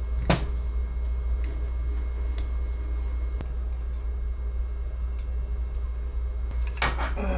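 A steady low hum with a sharp click about a third of a second in and a few faint ticks after it, from small carburetor parts being handled during Quadrajet reassembly.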